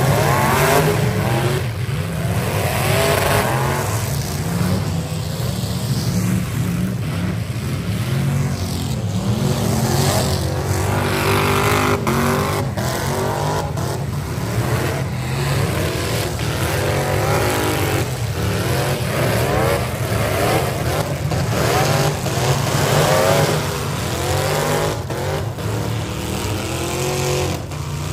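Several V8 demolition-derby cars' engines revving hard at once, their pitches repeatedly rising and falling over one another. Now and then there is the sharp bang of a collision.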